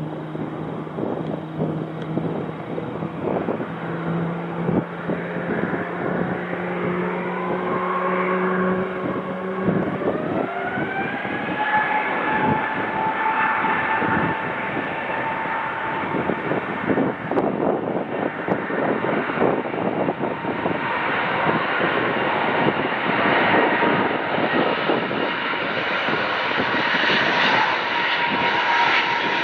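Airbus A350's Rolls-Royce Trent XWB turbofan engines running low and steady, then spooling up about a third of the way in to a higher, steady whine that grows louder toward the end.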